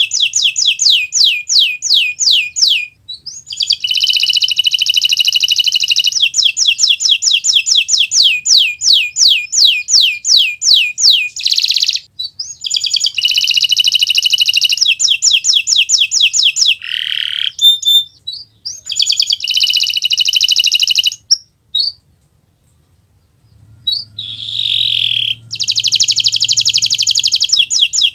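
Kenari Nusantara canary singing in vigorous, continuous 'gacor' song. It gives long rolling trills of rapidly repeated, downward-sweeping high notes, several a second, broken by short pauses, the longest about two-thirds of the way in.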